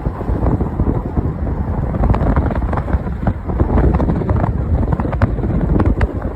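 Wind buffeting the microphone over the steady low rumble of a car driving along a road, with a few short ticks scattered through it.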